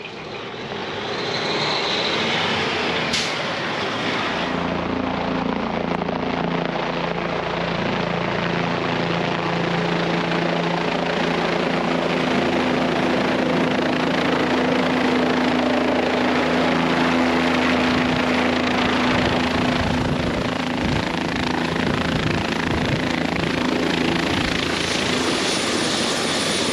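Helicopter running with a steady loud rotor thrum and constant low hum, growing louder over the first couple of seconds and then holding steady.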